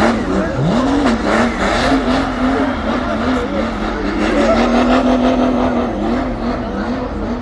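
Competition car's engine running hard under load, its pitch dipping sharply and climbing back about half a second in and again near six seconds.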